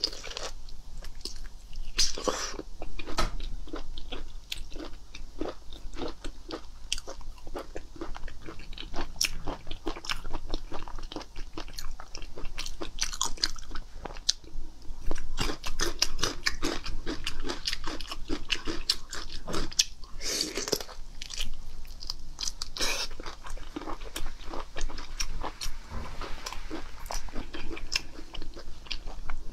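Close-miked wet chewing and biting of raw black tiger prawns, a steady run of small mouth clicks and smacks, with a few louder noisy bursts about two seconds in and again around two-thirds of the way through.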